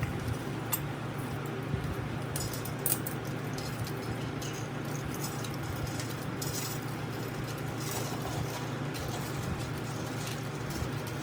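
Scattered light clinks and rattles of small hard objects being handled, over a steady low hum.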